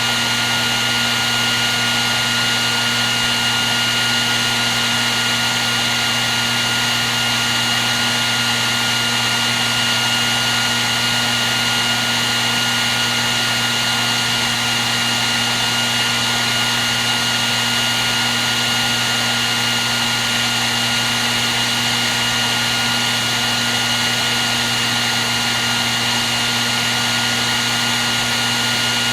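Hair dryer blowing steadily at one setting: an even rush of air over a constant motor hum and a high, steady whine.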